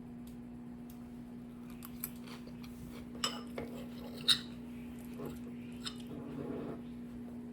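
A few light clinks and taps of utensils against dishes, the loudest about four seconds in, with a brief scrape near the end, over a steady low hum.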